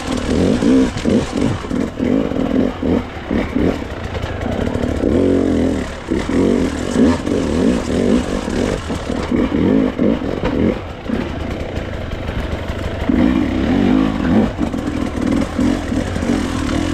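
Enduro dirt bike engine revving up and down in short repeated surges as it picks through a rock field, with clattering knocks from the bike striking rocks.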